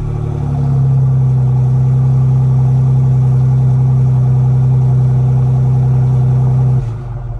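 Ford Bronco's 2.7 L EcoBoost V6 through a newly fitted aFe Apollo GT aftermarket exhaust, revved up about half a second in and held at a steady raised rpm, then let fall back toward idle near the end.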